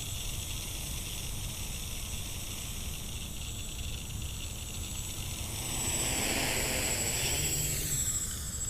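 Xaircraft X650 quadcopter in flight on a 3S battery, its four electric motors and propellers giving a steady whirring hiss with a thin high whine. The sound grows louder from about six seconds in, with a whooshing sweep in pitch as the quad passes.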